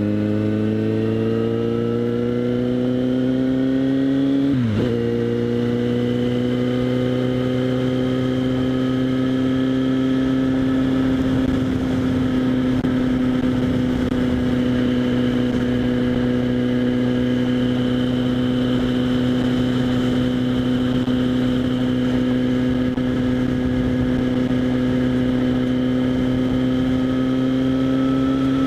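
Kawasaki Z800 inline-four with a LeoVince SBK aftermarket exhaust, heard from a helmet chin-mounted microphone. The engine note climbs under acceleration for about five seconds, dips briefly in a quick upshift, then holds at a nearly steady cruise, rising slightly towards the end.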